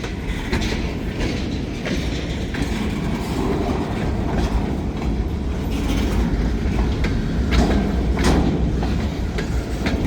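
Train rolling past, a steady low rumble with its wheels clicking irregularly over the rail joints.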